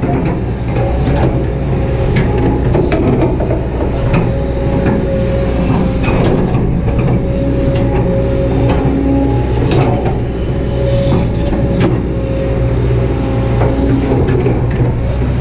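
Kobelco SK200-8 excavator's diesel engine running steadily as the machine works, with a steady whine over the drone and scattered knocks.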